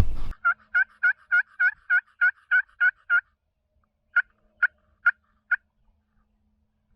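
Turkey yelping: a run of about ten quick, evenly spaced yelps, then four slower ones.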